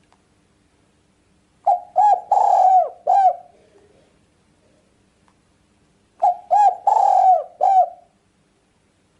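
Spotted dove cooing: two phrases of four or five coos each, a few seconds apart, each with a rougher note in the middle.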